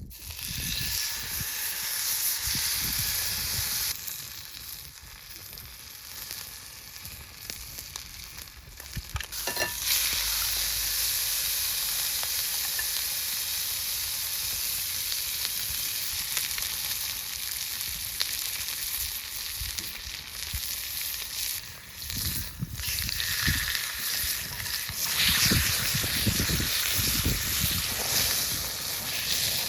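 Steak sizzling in a hot cast-iron skillet over a campfire, a steady frying hiss that grows louder about a third of the way in.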